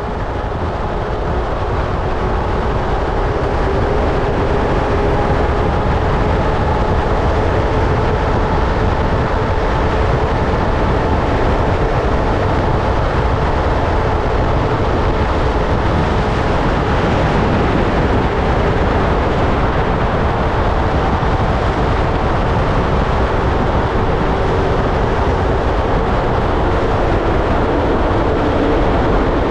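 Steady rush of high-speed wind from a large fan array blowing on a full-scale house, with a faint steady hum of fan tones under it. It swells over the first couple of seconds, then holds.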